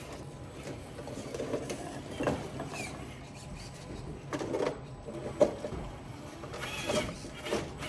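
Radio-controlled Traxxas TRX-4 rock crawler's electric motor and gear train whining in short bursts as it crawls over rocks, with one sharp knock a little past halfway.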